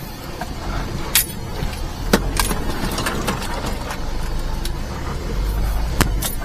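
Kei mini truck's three-cylinder engine running steadily under load, heard from inside the cab, with a few sharp knocks and rattles, about a second in, twice after two seconds and twice near the end, as the truck works through mud and snow.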